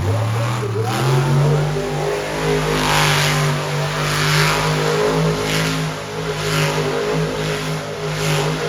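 Monster truck engine running loud and revving, its pitch climbing in the first second and then held high with uneven throttle surges.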